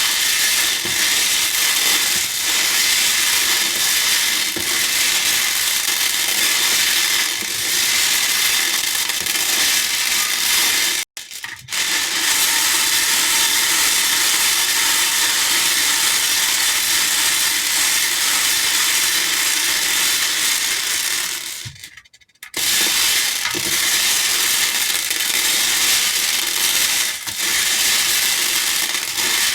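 Many small hair beads pouring and rattling against a bowl, a dense continuous clatter that stops briefly twice, about eleven and twenty-two seconds in.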